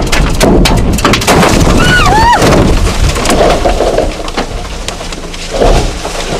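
Storm wind and rain lashing a car while trees and branches crack and crash down around it: a rapid string of sharp cracks and thuds in the first two seconds or so, with a short high rising-and-falling squeal about two seconds in, then a steadier rush of wind and rain.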